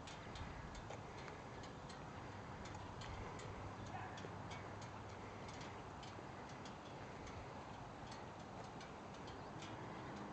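Faint, unevenly spaced ticks, a few a second, over a low steady background hiss.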